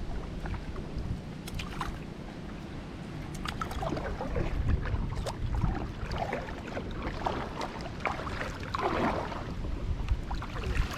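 Kayak paddle strokes splashing in swirling creek water, with wind rumbling on the microphone.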